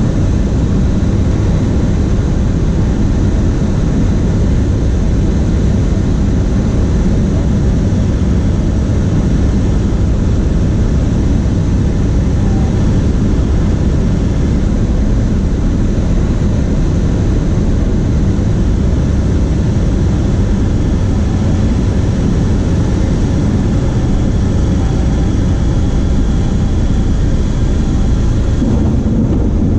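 Cessna 152's four-cylinder Lycoming engine and propeller running steadily, a loud, even drone.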